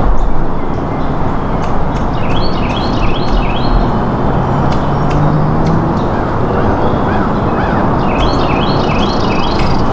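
A songbird calls two quick runs of repeated chirps, about 2 seconds in and again near the end, over a loud, steady rushing noise.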